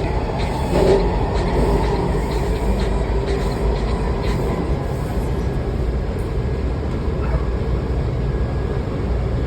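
Washington Metro train running steadily on open track: an even rumble of wheels on rail, heard from on board.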